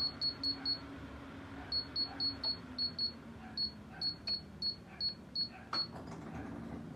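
Control-panel beeps of a Dreo 1500 W space heater as its buttons are pressed repeatedly: about twenty short high beeps in quick runs of about four a second, with brief pauses between runs, over a steady low hum.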